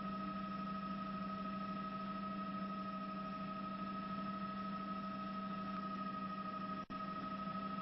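Steady hum with a hiss, holding a few fixed tones; it cuts out for an instant near the end.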